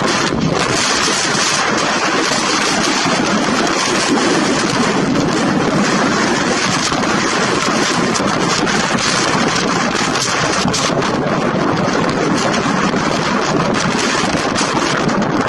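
KLM airliner landing in strong wind: a loud, steady rushing roar of jet engines and wind, with wind buffeting the microphone.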